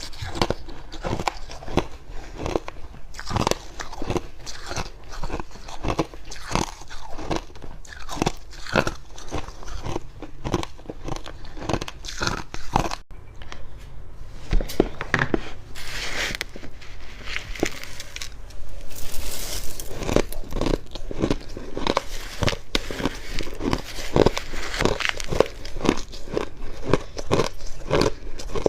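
A person biting and chewing fluffy freezer frost close to the microphone: a steady run of dry, dense crunches, with a couple of brief hissier stretches partway through.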